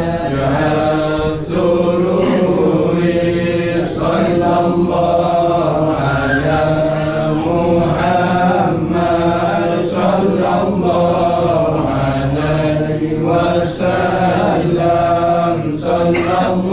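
Background music of chanted vocals: one voice singing long, wavering phrases with short breaks between them.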